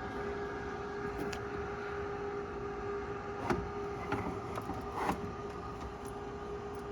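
Steady mechanical hum of a running refrigerator, with a few light clicks and knocks of handling around the middle.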